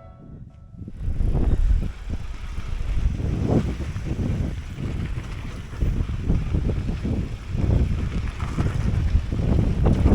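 Wind buffeting the microphone of a camera riding along on a mountain bike, a low, gusty rush that comes in about a second in and goes on unevenly.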